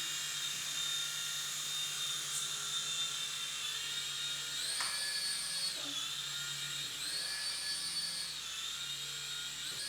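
Small electric motors of a battery-powered toy helicopter whining as its rotors spin, the high pitch rising about five seconds in and again about seven seconds in, each time falling back.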